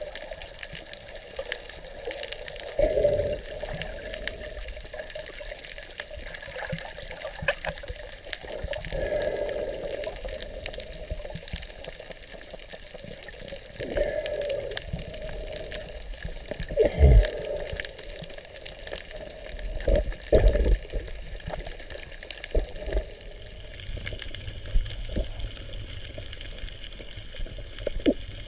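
Water moving and gurgling in uneven swells, with a few dull thumps.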